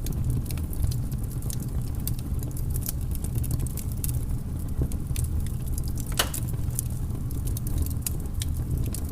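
Fire crackling: a steady low rumble with scattered sharp snaps and pops, one stronger pop about six seconds in.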